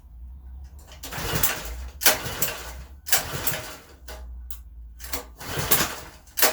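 Recoil starter of a Craftsman pressure washer's small four-stroke engine being pulled about five times in a row, each pull a short rasp as the engine cranks. It never catches: the engine won't fire.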